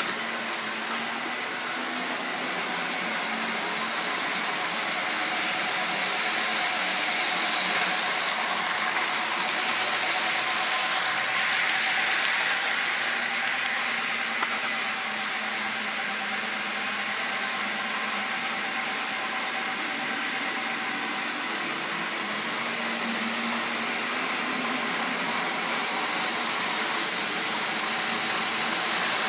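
Model train running on the layout: a steady whirr of the locomotive's small electric motor with wheels rolling on the rails, swelling slightly about halfway through.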